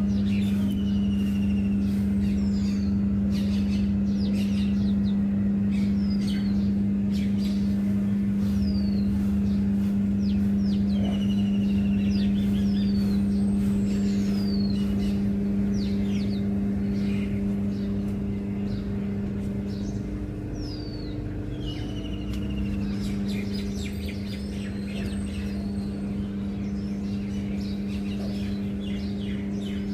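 Small birds chirping with short falling calls, repeated every second or two, over a loud steady low hum from an unseen machine.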